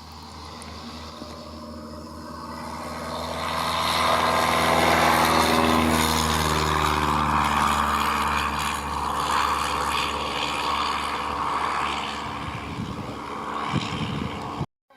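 Light propeller aircraft's engine passing by. It grows louder over the first few seconds and then slowly fades, its pitch dropping as it goes past.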